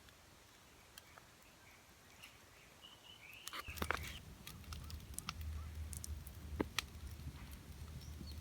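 A bird calling faintly a few times, then from about four seconds in a steady low rumble with scattered sharp clicks and snaps.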